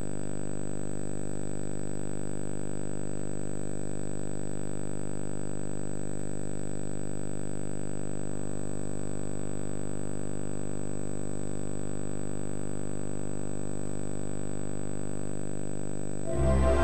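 Steady electrical hum and buzz from VHS tape playback, with a faint high whine, unchanging in pitch and level. Music cuts in suddenly just before the end.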